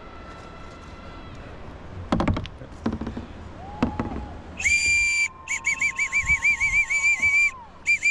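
Loud whistle blasts, shrill and piercing, starting about halfway through. The note is held, breaks briefly, then warbles rapidly for a second or two before steadying, and a last blast sounds at the end. The whistling hails the group that has just been spotted.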